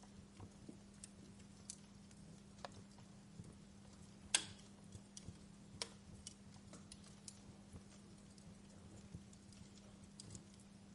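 Wood fire crackling in a fireplace: irregular sharp pops and snaps over a faint steady hiss, the loudest pop about four seconds in, with a faint steady hum underneath.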